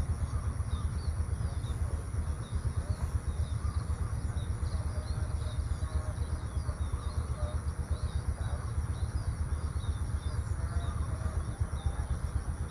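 Outdoor rural ambience: many small birds chirping in quick, scattered calls over a steady low rumble, with a thin steady high-pitched hiss throughout.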